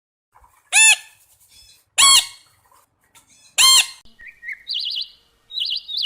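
Bird calls: three loud calls roughly a second apart, each rising and then falling in pitch, followed from about four seconds in by quick chirping and trilling bird song.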